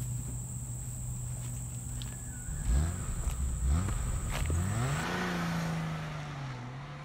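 Car engine revving up in several quick rising sweeps from about three seconds in, then holding a steady pitch and easing off near the end.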